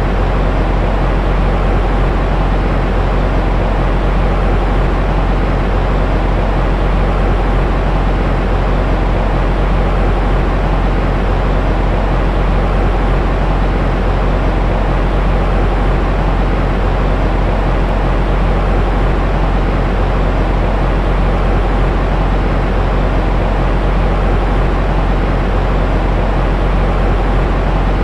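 Steady white-noise track for soothing a baby: a constant, deep rushing hiss, heavier in the low end than in the highs, with a faint steady hum in it and no change at all.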